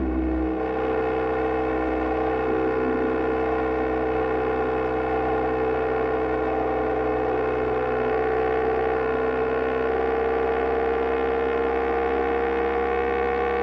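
A BMW GS Adventure's twin-cylinder engine running steadily at highway cruise, its pitch rising slowly as the bike gently gains speed, over a layer of wind and road noise.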